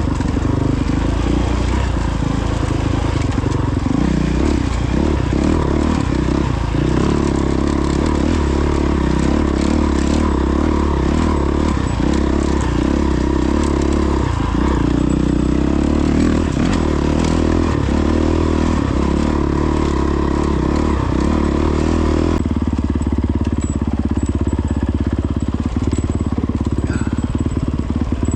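A Honda CRF450X dirt bike's single-cylinder four-stroke engine running steadily while being ridden on a trail. About 22 seconds in, the sound turns duller.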